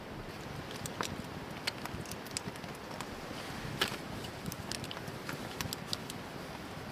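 Wood campfire crackling: irregular sharp pops and snaps, the loudest a little before four seconds in, over a steady rushing hiss.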